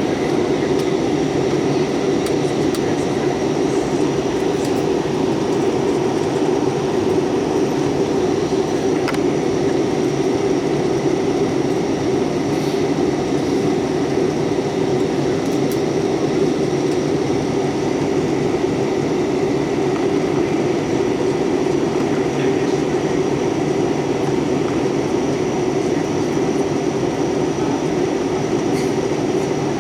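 Steady jet airliner cabin noise in flight: an even rush of engine and airflow sound, with a faint steady whine above it.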